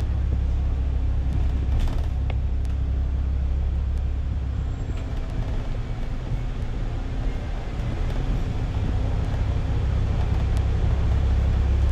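A city bus running, heard from inside the cabin as a steady low engine and road rumble. The rumble eases about five seconds in and builds again near the end, with a few faint clicks early on.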